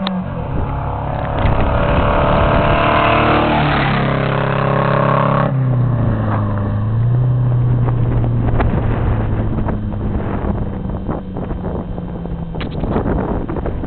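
Motor engine revving up, its pitch rising for about four seconds, then dropping sharply to a lower, steadier run and easing off.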